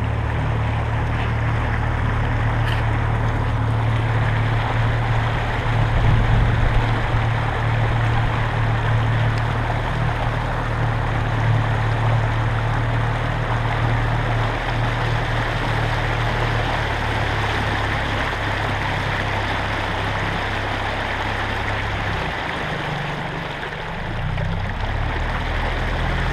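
Boat outboard motor running steadily at cruising speed, its low hum under the rush of water along the hull and wind. A few seconds before the end the engine note drops and changes briefly, then picks up again.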